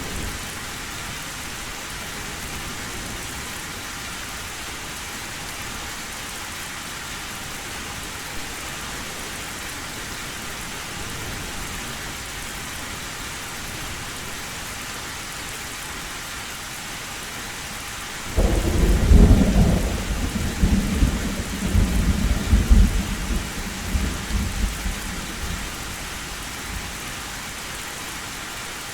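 Steady heavy rain on a metal roof, with a clap of thunder breaking in about two-thirds of the way through and rumbling for several seconds before fading.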